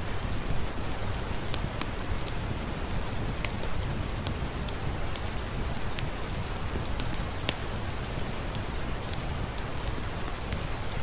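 Steady rain falling, with a low rumble underneath and scattered sharp ticks throughout.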